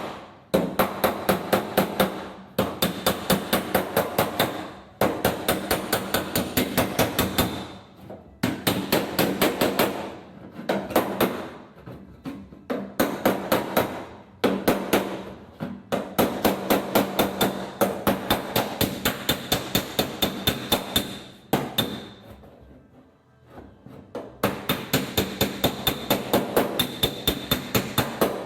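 Panel-beating hammer striking a steel car quarter panel over a hand-held dolly, about five quick ringing blows a second, in bursts of a few seconds with short pauses and one longer lull about two-thirds of the way in. The blows are planishing a welded-in patch to tidy up the weld.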